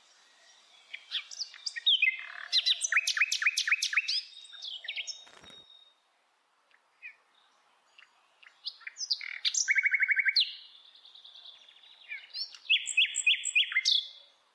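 A bird singing in three bursts of quick, varied high chirps and rapid trills, with short quiet pauses between phrases.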